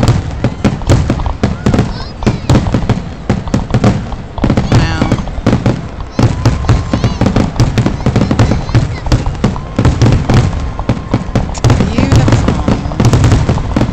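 A fireworks finale: a rapid, continuous barrage of aerial shells launching and bursting, the bangs overlapping with crackling.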